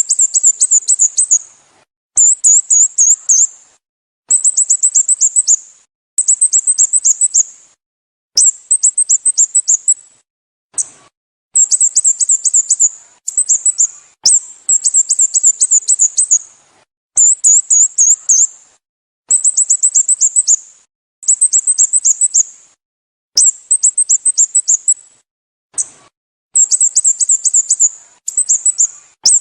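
Sooty-headed bulbul calling: rapid runs of short, high-pitched down-slurred notes, each run lasting about a second and repeated roughly every two seconds.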